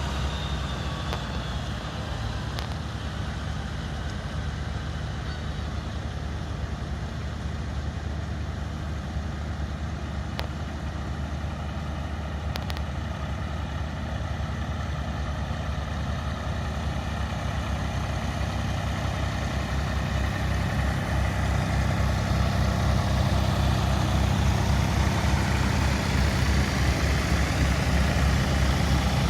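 An engine running steadily with a low, pulsing rumble, growing gradually louder over the second half.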